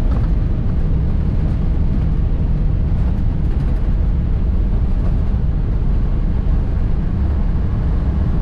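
Airbus A320 rolling out on the runway just after touchdown, heard from the cockpit: a steady, loud low rumble of engines and wheels.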